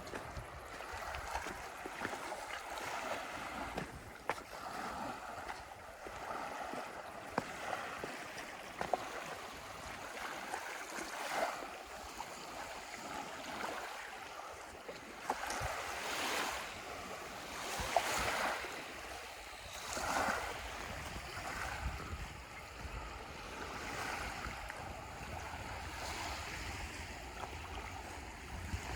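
Small waves washing onto a beach, the wash rising and falling every couple of seconds, with low wind rumble on the microphone.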